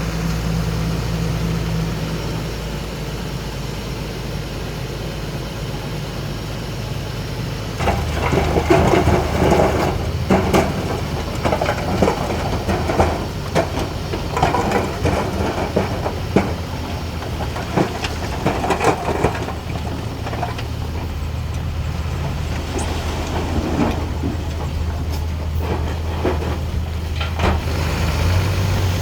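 Komatsu D31P bulldozer's diesel engine running steadily. About eight seconds in, the engine note rises as it works under load, with repeated clanks and scraping through the rest.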